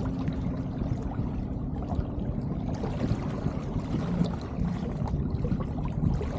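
Water gurgling and trickling along the hull of an Elliot 7.4 sailing yacht under way, a steady wash with a low rumble beneath it.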